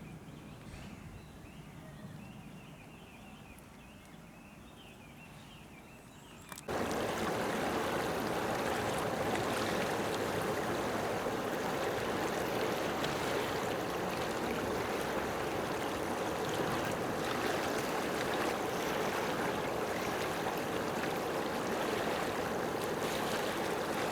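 Faint, quiet outdoor background with a few wavering high calls. About seven seconds in, a loud, steady rushing noise starts abruptly and runs on evenly, like running water.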